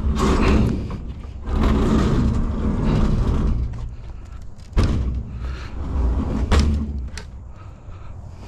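Clattering and thumping from scrap being handled, with three sharp knocks in the second half.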